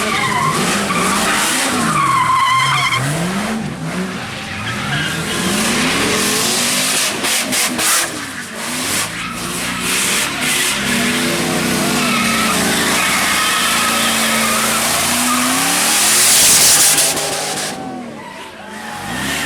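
A car doing donuts on wet pavement: the engine revs up and down again and again over the hiss and squeal of spinning tyres on the wet road, loudest about sixteen seconds in.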